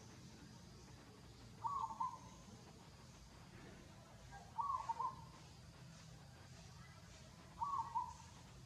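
A bird calling: a short two-note call near the pitch of a whistle's lower range, repeated three times at an even pace of about one call every three seconds.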